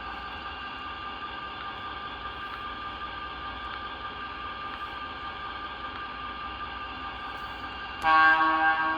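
MTH S gauge model locomotive's onboard sound system playing a steady locomotive engine running sound through its speaker. About eight seconds in, a loud horn blast sounds.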